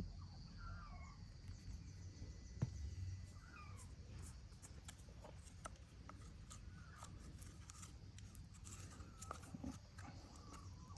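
Faint scattered bird chirps, with light clicks and scrapes of a spatula spreading honey over a cardboard roll and one sharper click a few seconds in.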